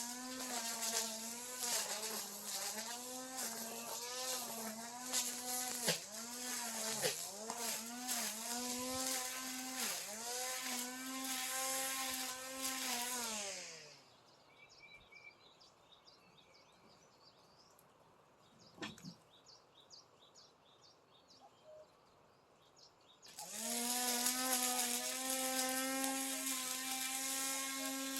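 Brush cutter engine running at high speed, its pitch dipping briefly again and again as the blade bites into grass. About halfway through it winds down and goes quiet, leaving faint chirping, then comes back up to full speed near the end.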